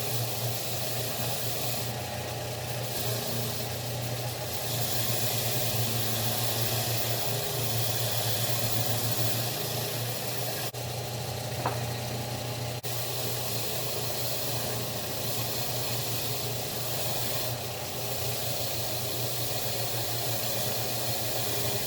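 Motor-driven wire wheel running steadily with a machinist jack part held against it: a constant motor hum under the scratchy hiss of the wire bristles scouring the metal clean, with one small click about halfway through.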